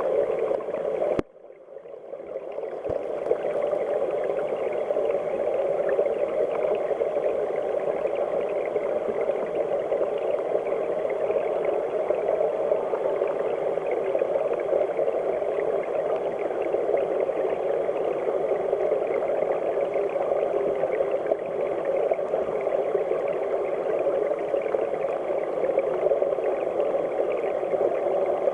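Mountain stream current rushing, heard muffled and deep through a camera held underwater. About a second in the sound cuts out briefly and swells back.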